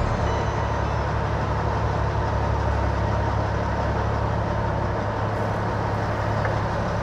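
Heavy diesel truck engine idling steadily, a constant low hum.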